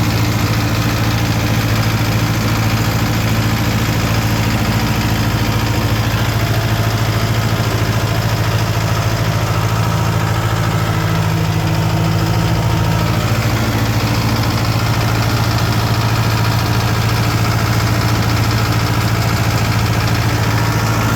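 Tractor engine running at a steady, unchanging speed, a constant hum.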